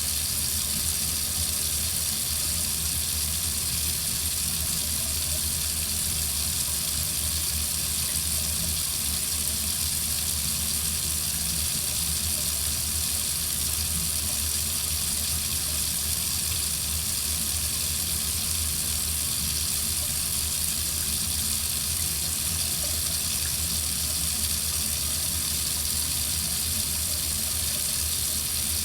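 Water faucet running steadily into a sink, an even, unchanging hiss of water.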